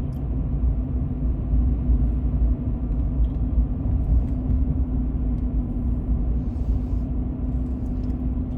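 Car cabin noise while driving: a steady low rumble of tyres and engine, with a constant hum.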